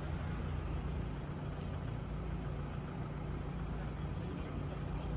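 Steady low engine hum of an idling vehicle, even and unchanging throughout.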